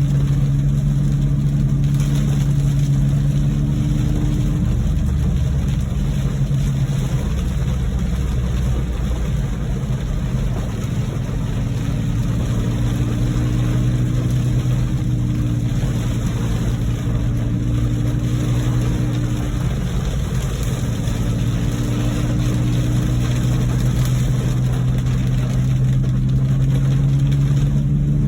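Inside a moving car: a steady engine drone and road noise, with the even hiss of heavy rain, the engine note wavering slightly as the speed changes.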